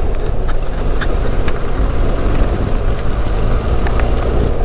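Benelli TRK 502 parallel-twin engine running steadily while riding, mixed with wind rush on the microphone, with a few faint ticks.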